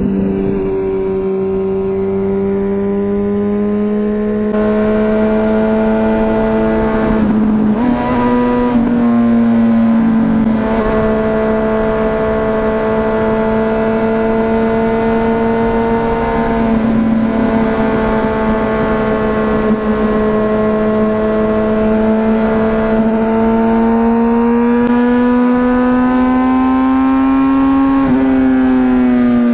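2004 Honda CBR1000RR Fireblade's inline-four engine running through a Jardine titanium aftermarket exhaust while riding, held at fairly steady revs. The pitch shifts briefly a couple of times about a quarter to a third of the way in and rises slowly near the end.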